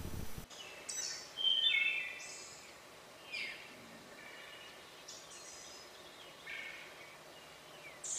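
Birds chirping: a series of short, high-pitched calls, several of them sweeping downward, one every second or so. A low room hum cuts off about half a second in.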